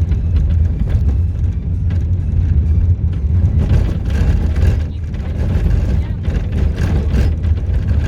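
Car driving on the road, heard from inside the cabin: a loud, steady low rumble of engine and road noise.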